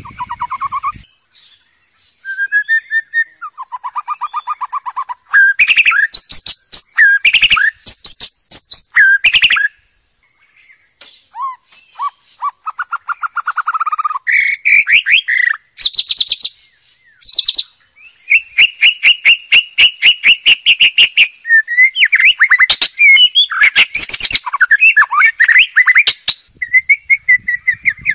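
White-rumped shama singing: varied phrases of clear whistles and fast trills, broken by short pauses.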